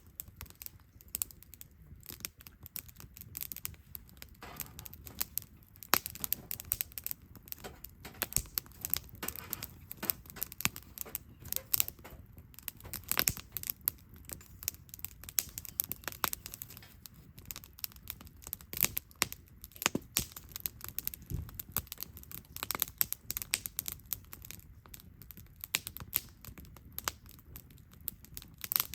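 Wood campfire crackling, a dense stream of irregular sharp snaps and clicks.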